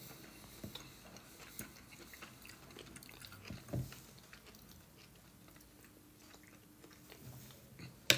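Quiet chewing and small mouth sounds of a person eating soft gnocchi, with scattered light clicks and a soft knock a little before four seconds in.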